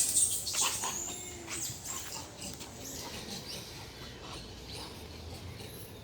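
Monkey calling: a loud burst of high-pitched squeaks and chirps right at the start, then scattered shorter squeaks.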